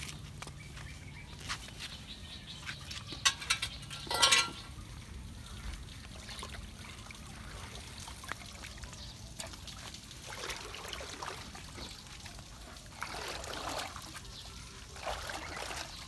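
Water trickling and pouring, with a cluster of sharp knocks about three to four seconds in and swells of splashing water later on.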